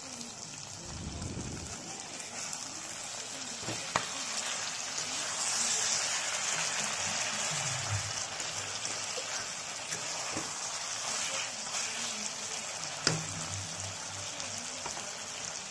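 Chicken pieces frying in oily masala in a metal kadai, sizzling with a steady hiss. A few short knocks of the spatula against the pan come as it is stirred, near 4, 8 and 13 seconds in.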